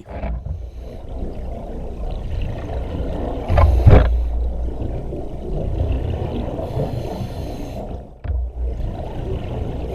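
Scuba diver's regulator breathing underwater, heard through the camera housing: a steady low rumble with a loud gush of exhaust bubbles about four seconds in and a hissing breath near the end.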